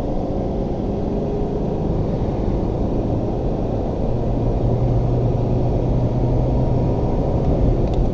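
An Alfa Romeo car's engine and road noise heard from inside the cabin, running under throttle on a straight: a steady low drone that grows a little louder, with a stronger low engine note, about four seconds in.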